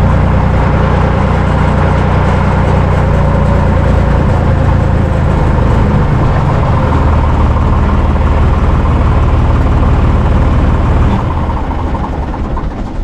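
Diesel farm tractor engine running steadily at a low idle, with a loud low note that drops in level about eleven seconds in.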